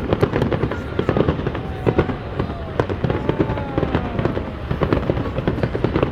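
Fireworks going off in a dense, continuous run of crackling pops and bangs, with a few thin whistles gliding down in pitch over them.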